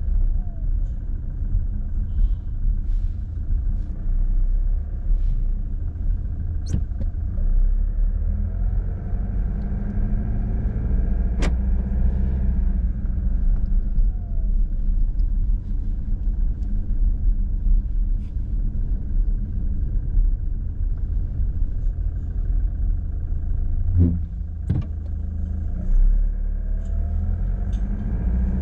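Mazda CX-30's 1.8-litre Skyactiv-D four-cylinder diesel heard from inside the cabin while driving off at low speed: a steady low rumble of engine and road noise, with a few brief clicks.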